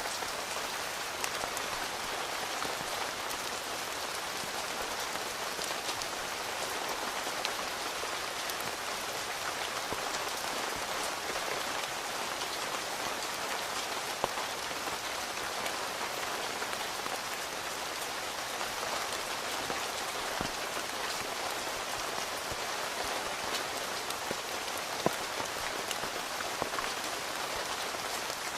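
Steady rain pattering on a tent, with an even hiss and scattered louder single drops, a few standing out such as one about a second before the midpoint and one near the end.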